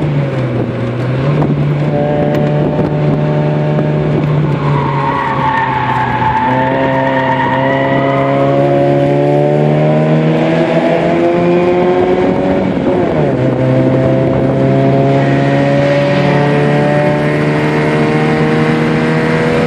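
Nissan B13's GA16 four-cylinder engine under load, heard from inside the cabin: held steady at first, then climbing in revs, with a short dip about thirteen seconds in at a gear change before it climbs again. Tyres squeal about five to eight seconds in, through a corner.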